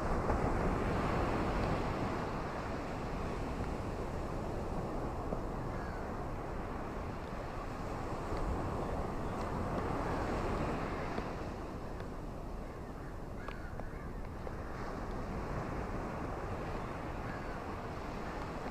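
Ocean waves washing onto a shore: a steady rush of surf that swells and eases, louder at the start and again about halfway through.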